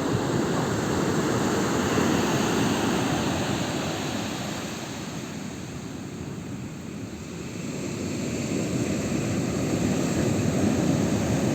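Steady low rushing of beach surf and wind. It eases off in the middle and builds again near the end.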